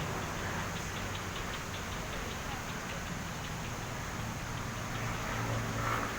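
Outdoor ambience: wind noise on the microphone with people's voices in the background, and a low vehicle hum that grows louder near the end.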